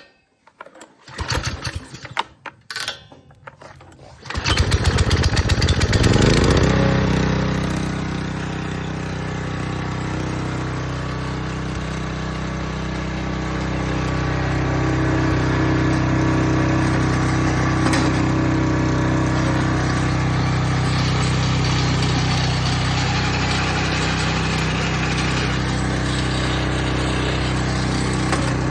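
Small gas engine of an Earthquake 16-inch rear tine rototiller being started: a few short bursts of cranking, then it catches about four seconds in, revs up briefly and settles into a steady run.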